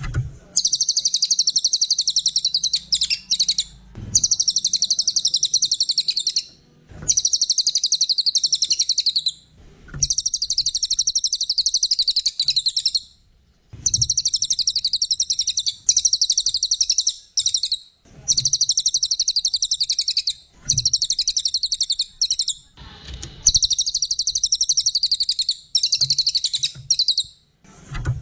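A small songbird singing long, rapid, high-pitched trilled phrases, each two to three seconds, repeated about eight times with short pauses between.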